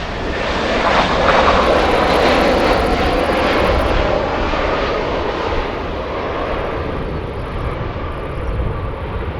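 Jet airliner passing close: the engine noise swells over the first second or so, with a faint whine, then slowly fades.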